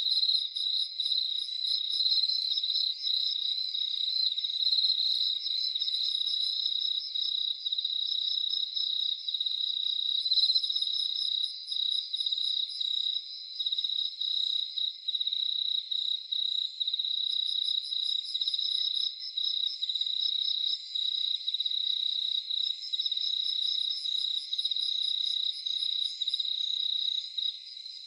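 Night chorus of crickets trilling steadily and densely, with a higher, faster insect pulsing coming in short runs every few seconds. It is all high-pitched, with no low sounds beneath it.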